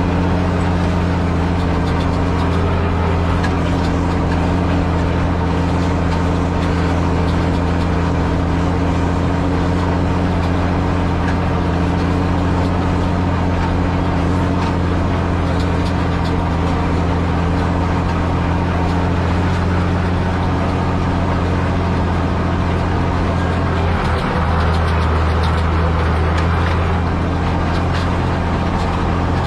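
SAME Titan 160 tractor engine running steadily, its note dipping and shifting briefly about 24 seconds in.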